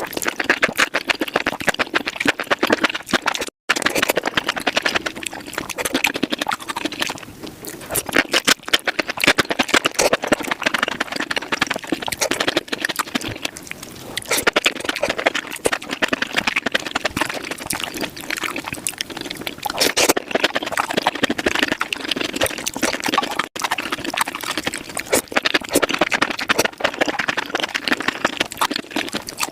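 Eating sounds played at five times speed: rapid wet chewing and mouth clicks over spicy mushrooms, a dense unbroken patter. It cuts out briefly about three and a half seconds in and again a little past twenty-three seconds, where one clip gives way to the next.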